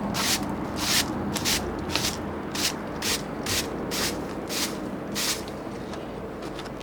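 Handsaw cutting through wood in rhythmic scraping strokes, about two a second, which stop about five seconds in.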